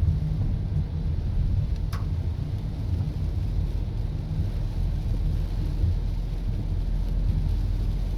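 Car driving on a wet highway in light rain, a steady low road-and-engine rumble. A single short click about two seconds in.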